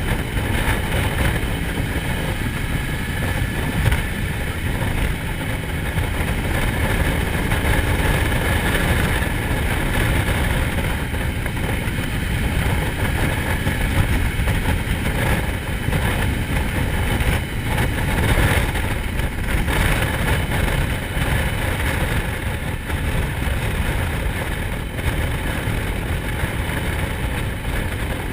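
Motorcycle running steadily on the road, a constant loud rumble with no pauses or changes in speed.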